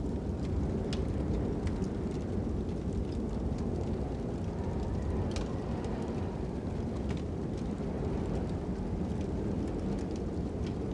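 Ambient fire and wind: a steady low rumble of wind with scattered crackles and pops from a burning fire.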